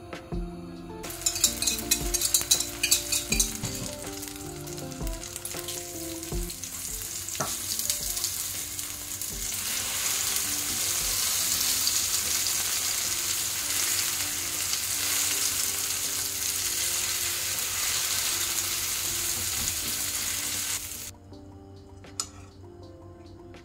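Egg omelette frying in hot oil in a nonstick pan: sharp crackling and popping at first, settling into a steady sizzle that cuts off suddenly near the end.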